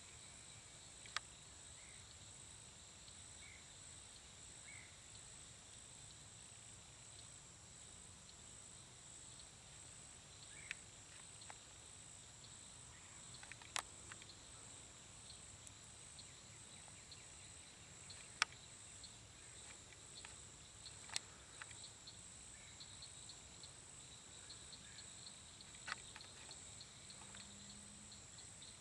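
Faint, steady high-pitched insect chorus, crickets or similar, from the marsh woods. A handful of sharp isolated clicks sound at irregular intervals across it.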